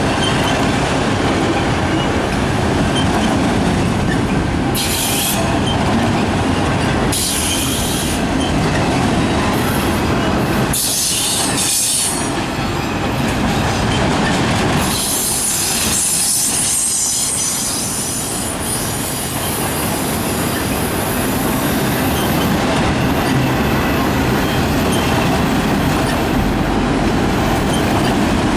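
Freight train rolling past at close range: a steady rumble of car wheels on the rails, broken by high-pitched wheel squeal several times, the longest from about 15 to 22 seconds in, as the wheel flanges grind through the curve.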